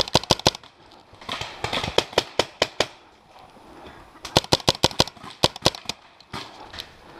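Magfed paintball marker firing rapid shots, about eight a second, in strings: a fast run that stops within the first second, a few spaced shots, then another fast run past the middle. It is emptying a 20-round Helix continuous-feed magazine.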